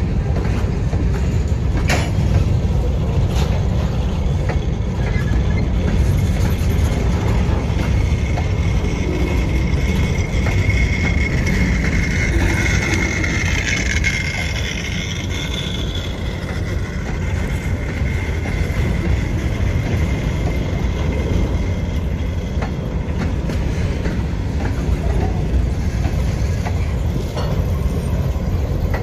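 CSX freight train rolling past on the rails with a steady heavy rumble and wheel clatter. About ten seconds in, a high wheel squeal comes up, peaks for a few seconds and slowly fades.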